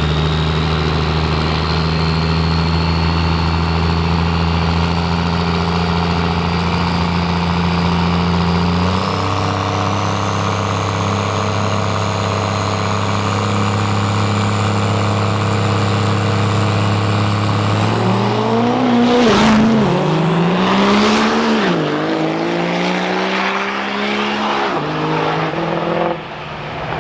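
Turbo-diesel drag trucks' engines held at steady high revs, with a turbo whistle slowly climbing and a step up in pitch about a third of the way in. About two-thirds in the engine pitch drops and climbs several times as the trucks run.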